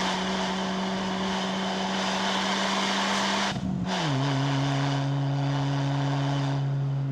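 Mitsubishi 4B11 inline-four running through a MAX Racing R5500 muffler, a steady drone under load. About halfway through it breaks off briefly and comes back at a clearly lower steady pitch, the rev drop of an upshift.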